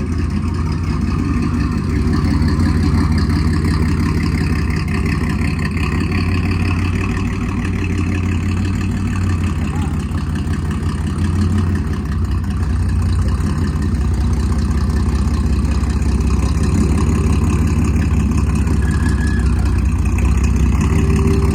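Pickup truck engine idling through a straight-piped, dual-exit exhaust, a steady low-pitched exhaust note that grows a little louder in the second half.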